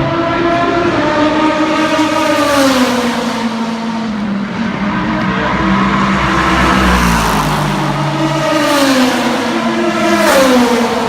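Endurance racing cars passing at speed: the engine note falls in pitch as one goes by about two seconds in and another near the end, with other engines heard between.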